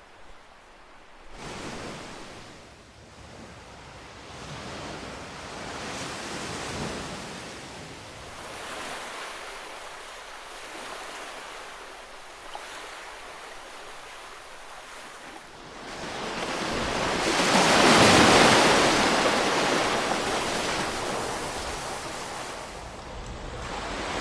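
Ocean waves breaking and washing up a shore: a few smaller swells, then one larger wave that builds about two-thirds of the way in, crests and slowly washes back.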